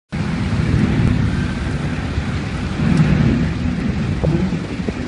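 Mobile log debarking machine running: a loud, continuous low rumble with a noisy hiss above it.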